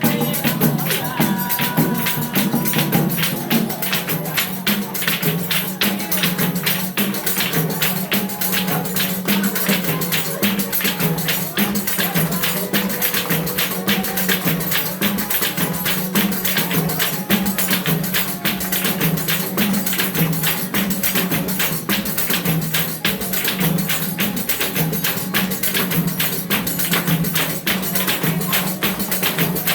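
Samba de roda music in the chula style: a fast, dense percussion rhythm led by tambourine-like jingles, keeping a steady beat throughout.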